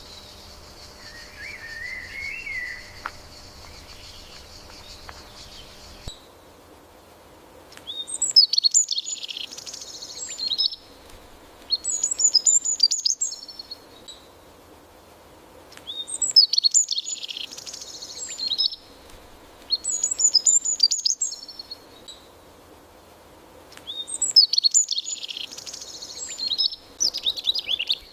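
Insects droning steadily with one short bird chirp, cut off abruptly about six seconds in. After that a songbird sings bright, high twittering phrases in pairs, a longer phrase then a shorter one, repeating about every eight seconds.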